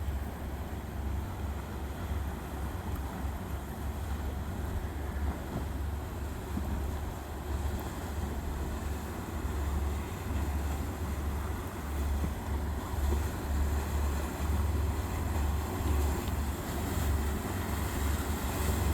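Boat engines running as boats pass, with wind buffeting the microphone in uneven low gusts that grow somewhat louder in the second half.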